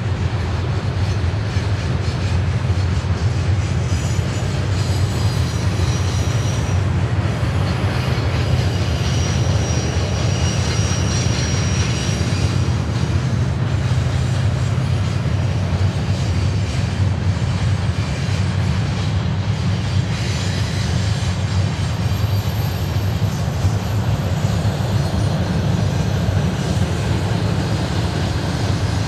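Train running on the rails, a steady heavy low rumble throughout, with a faint high wheel squeal about six seconds in and again from about nine to twelve seconds.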